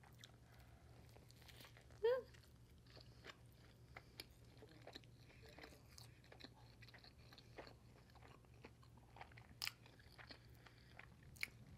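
Faint close-up chewing of a bite of a thick, juicy hamburger: soft wet mouth sounds and scattered small clicks, with a brief vocal sound about two seconds in.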